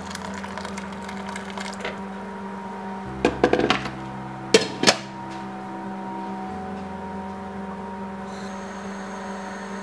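A steady hum with a short run of sharp clinks and knocks a little past the middle, then two more sharp knocks about a second later.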